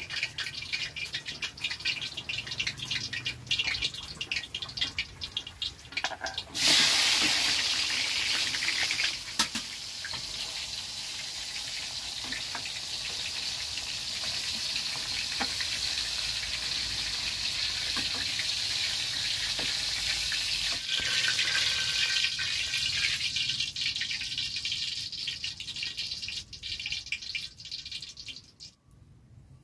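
A kitchen knife cutting on a wooden chopping board with irregular clicks. About six seconds in, the chilies, shallots, garlic and tomato hit hot oil in a wok and start sizzling loudly all at once. The sizzle goes on steadily, then grows thinner and quieter toward the end.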